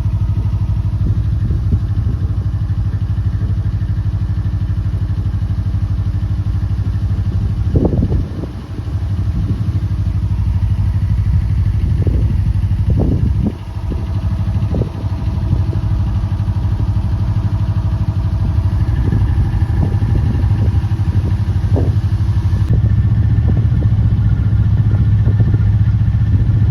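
Narrowboat engine running steadily at low speed, with a few brief knocks and short dips in level partway through.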